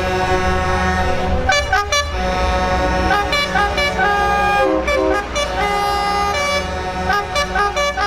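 Multi-tone truck air horns sounding a series of short and held blasts that change pitch from note to note, over the low rumble of a running truck engine.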